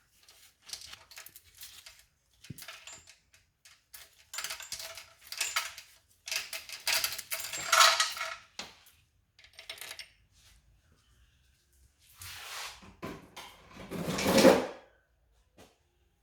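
Timing chain of a Toyota 2AZ-FE engine clinking and rattling as it is worked off its sprockets, with irregular bursts of metal-on-metal clatter and a longer scraping clatter near the end.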